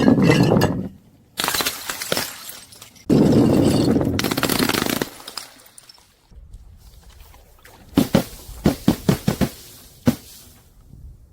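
Glass bottles being crushed and shattering: three long bursts of crunching, breaking glass in the first five seconds, then a quick run of sharp cracks about eight seconds in.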